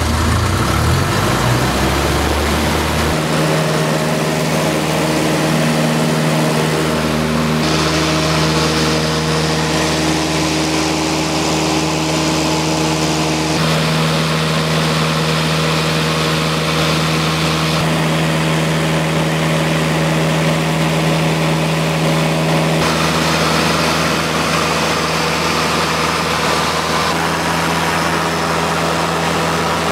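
Cessna 152's four-cylinder Lycoming engine and propeller rising in pitch over the first few seconds as power comes up for takeoff, then running steadily at high power.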